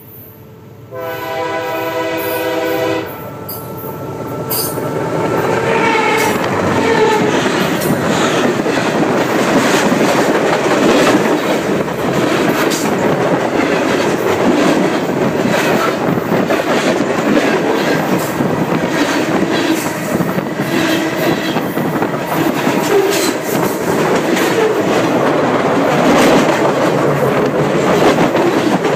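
Train horn sounds for about two seconds, then the train passes directly overhead: a loud, continuous rumble of wheels on rail with rapid clicks and clatter, picked up from a phone lying between the rails.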